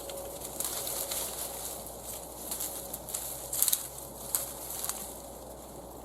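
Footsteps crunching over frozen ground and dry vegetation, irregular steps with a crackly rustle between them.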